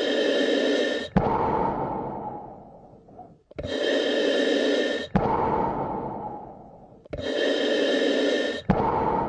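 A person breathing slowly and evenly, three breaths at even intervals about every three and a half seconds. Each is a short, loud draw of about a second that stops sharply, followed by a longer breath that fades away.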